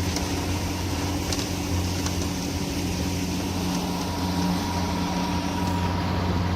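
Wakeboard tow boat's engine running with a steady, even hum.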